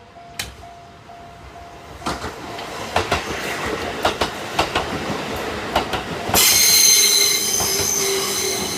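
Electric train approaching and passing: rising rumble with sharp clacks of the wheels over the rail joints. About six seconds in, a loud, high-pitched metallic squeal of several steady tones sets in and holds.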